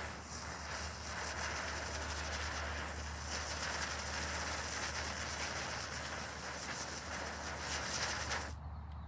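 Jumping jack ground-spinner fireworks hissing and crackling as they burn, stopping abruptly near the end.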